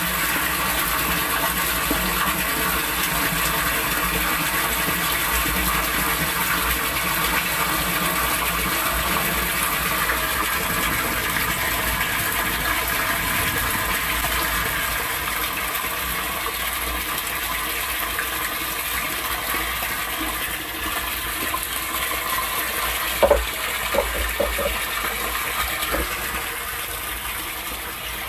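Steady rush of water pouring through an outdoor sump drainage system in a downpour, with a few short knocks near the end.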